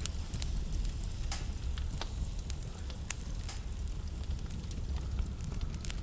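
Wood fire burning in a fireplace: a steady low rumble of the flames with frequent sharp crackles and pops from the burning logs, several a second.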